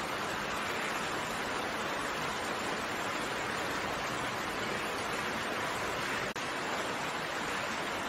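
Steady rain falling as a constant, even hiss, with no single drops standing out and a momentary dropout about six seconds in.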